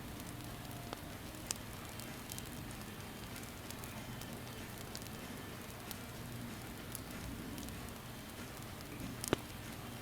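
Campfire burning: a steady hiss with scattered sharp crackles and pops, the loudest a little before the end.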